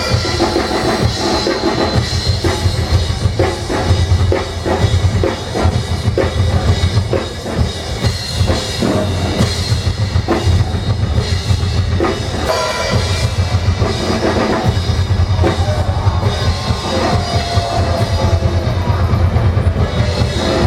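Live drum kit and percussion ensemble playing a fast, dense rhythm driven by bass drum, with cymbals.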